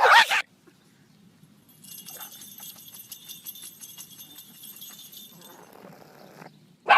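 Small bells jingling for about four seconds, with rapid little ticks and high ringing, then a short loud sudden sound just before the end.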